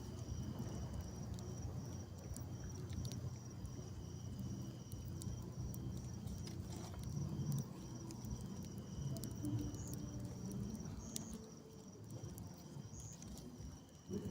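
Insects chirping in a steady, fast-pulsing high trill, with a second intermittent lower trill, over low rustling and a few scattered sharp clicks.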